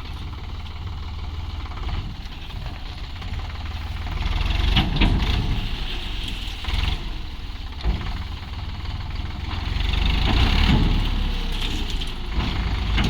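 Sonalika DI 745 III tractor's diesel engine running, revving up twice, about four seconds in and again near ten seconds, with a couple of short knocks.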